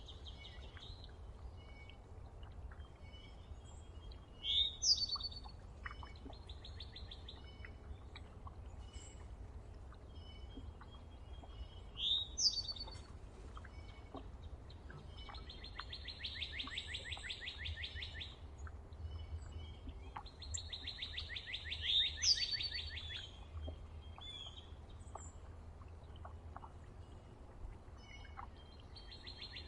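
Wild songbirds calling: a rapid, even trill of about two seconds repeated several times, and three loud, sharp upslurred notes. A faint low rumble runs underneath.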